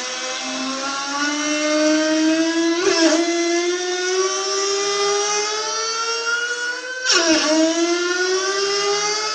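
A faulty water tap singing a loud pitched whine that climbs slowly, drops suddenly about three seconds in and again near seven seconds, then climbs again, like a motorbike revving up through its gears.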